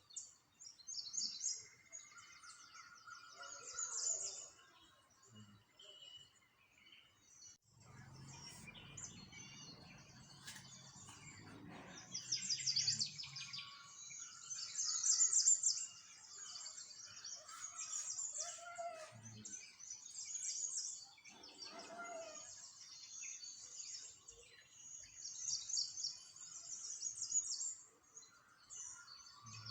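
Small songbirds chirping and twittering in repeated quick high bursts. A low rumble comes in about eight seconds in and lasts a few seconds.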